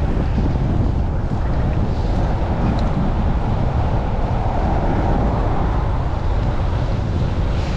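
Strong gusty wind buffeting the microphone of a chest-mounted camera on a moving bicycle: a loud, steady rumbling noise with no distinct events.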